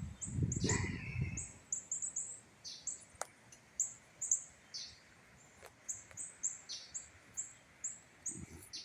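Small birds chirping in short, high notes, many of them scattered through. A gust of wind buffets the microphone in the first second and a half.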